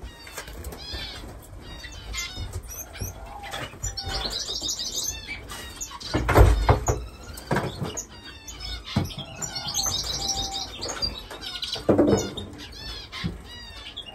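Many caged finches chirping, with fast high trills repeating every few seconds. A few short dull thuds come through, the loudest about halfway through.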